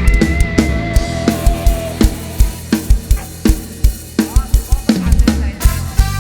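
Live band playing an instrumental passage: a drum kit keeps a steady beat with bass drum and snare hits and cymbals, over bass and a few held melody notes.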